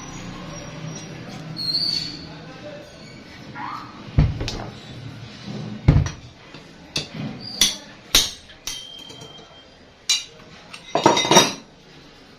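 Metal clinks and knocks of hand tools against metal compressor parts: a string of separate sharp strikes, some ringing briefly, with a quick flurry of them near the end.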